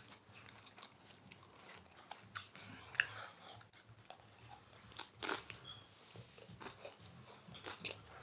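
Faint chewing of a crunchy hard-shell taco, with a few sharper crunches and mouth clicks scattered through.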